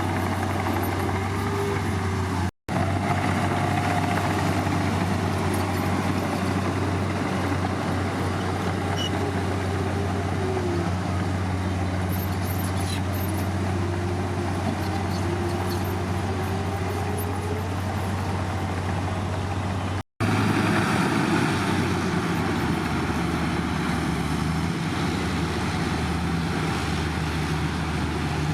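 Heavy diesel earthmoving machinery running steadily under work, with a low engine hum. The sound drops out briefly twice, and the engine note shifts slightly after the second dropout.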